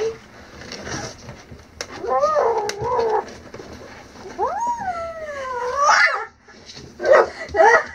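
Wild kitten yowling in distress while being held for a bath: two long, drawn-out cries, each over a second, bending up and down in pitch.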